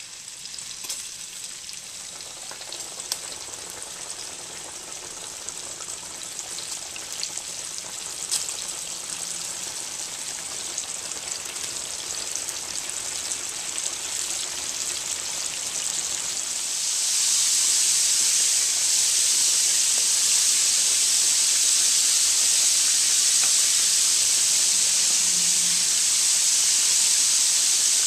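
Pork chops frying in hot canola oil in a cast-iron skillet: a crackling sizzle that builds gradually, then jumps to a loud, steady hissing sizzle about seventeen seconds in.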